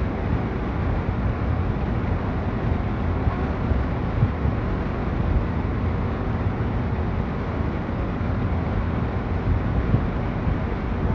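Steady outdoor rumble and hiss with no distinct events, heaviest in the low end.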